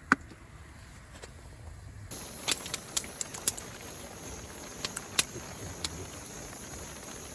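Wood campfire crackling: irregular sharp pops and snaps over a faint steady hiss that comes in about two seconds in. A single sharp click comes right at the start.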